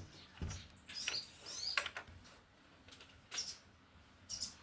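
A caged songbird giving short, high, sharp chirps, about half a dozen at irregular intervals.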